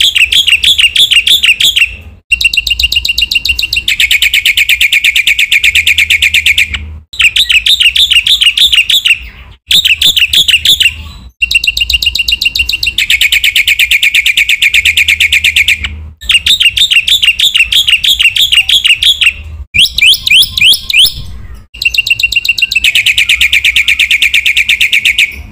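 Black-winged myna (jalak putih) singing loudly in full song. It delivers phrases of rapid, repeated chattering notes, each a few seconds long, with short breaks between them.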